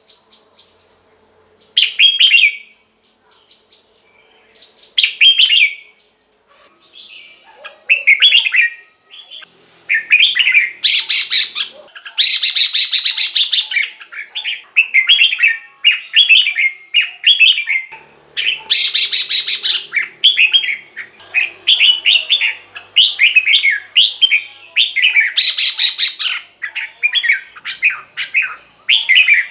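Red-whiskered bulbul singing in short, clear whistled phrases. They come a few seconds apart at first, then from about eight seconds in run together into an almost unbroken string of quick song phrases.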